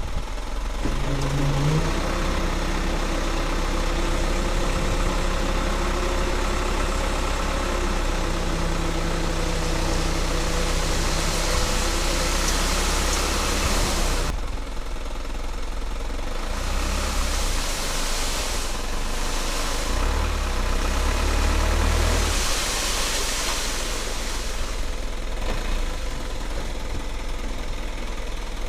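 Dump truck's diesel engine running steadily while the hydraulic tipper unloads sand, with stretches of loud rushing noise in the second half.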